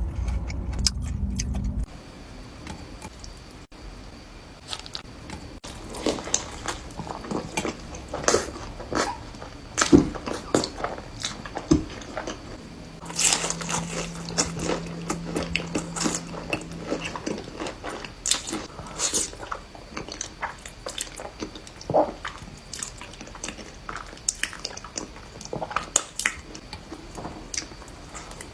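Close-miked eating: bites and chewing, with many short crunches and wet, squishy mouth sounds. A low steady hum runs for about four seconds midway.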